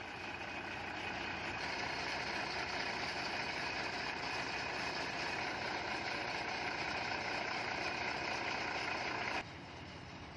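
Ashok Leyland 3718 truck's diesel engine running, held at raised revs for several seconds, then dropping abruptly to a lower, quieter run near the end.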